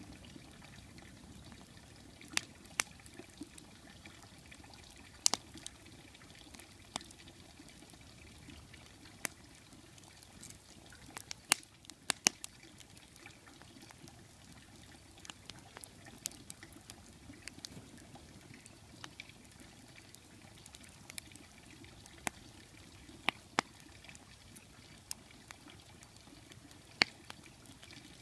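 Campfire burning in a fire bowl: crackling, with irregular sharp pops over a low, steady rustle of flames.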